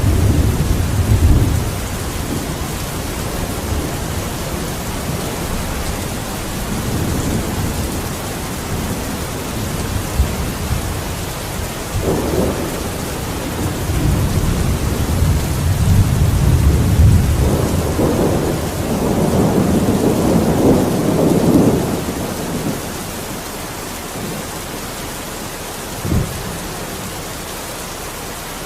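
Steady heavy rain with rolling thunder. Long low rumbles swell and fade several times, the strongest in the middle, and a short sharp thunder crack comes near the end.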